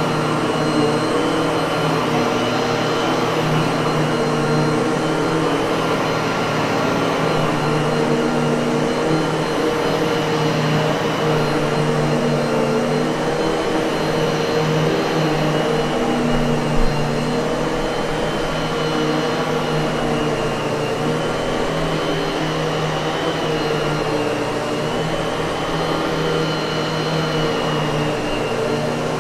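Miele vacuum cleaner motor running steadily, a constant rush of air with a steady high whine, with one brief low knock about halfway through.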